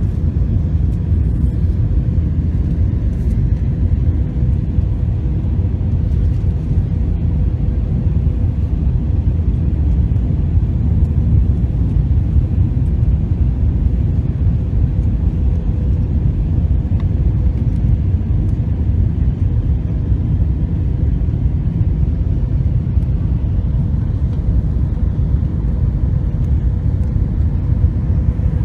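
Steady low rumble of an airliner's engines and airframe heard from inside the passenger cabin, with a faint steady hum running through it.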